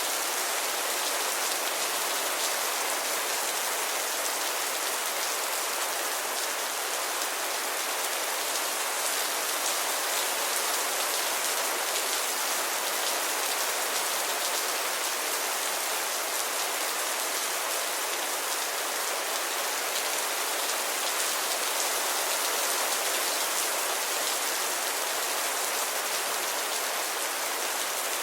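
Steady rainfall, a dense even patter of raindrops on a surface with no thunder and no change in strength.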